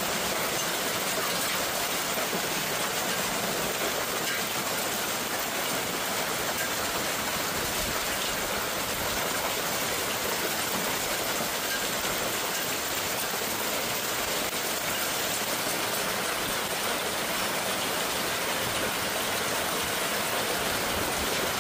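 A hailstorm pelting down: a steady, dense hiss of hail and heavy rain striking surfaces, with no letup.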